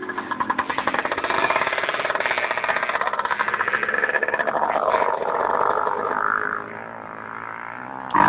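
Motorcycle engine running with a rapid, even firing pulse, growing quieter about six and a half seconds in.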